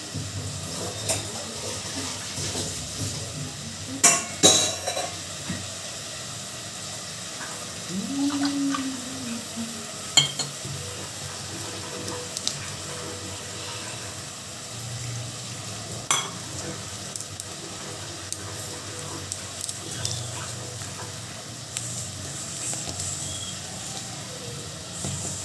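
Wheat-flour dough being kneaded by hand in a bowl: soft pressing and stirring sounds, with sharp utensil clinks about four seconds in, again near ten and sixteen seconds, all over a steady hiss.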